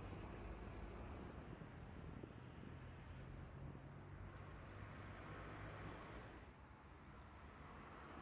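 Distant road traffic, a steady low rumble. Two short runs of faint, very high chirps from a small bird come over it about two and four seconds in.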